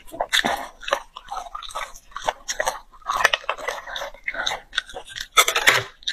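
Close-miked chewing and biting of braised beef bone marrow, in irregular bursts with small clicks, loudest a little after five seconds in.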